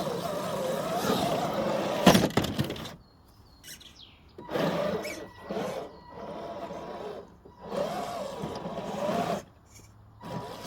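FMS FJ40 RC crawler's electric motor and gearbox whining in short throttle bursts, the pitch rising and falling with each burst, with short quiet gaps between them. A sharp knock comes about two seconds in.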